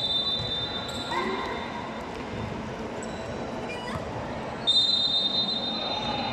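Referee's whistle blown twice: a short blast that stops about a second in, then a longer one starting near the end. Each is a steady, shrill tone over faint voices.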